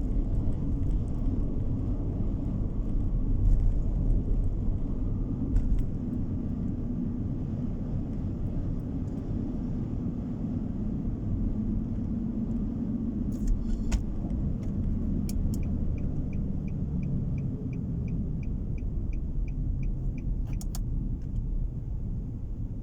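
Steady low road and engine noise heard inside a moving car's cabin. In the second half there is a regular light ticking, about three ticks a second, for about five seconds, with a few sharp clicks either side of it.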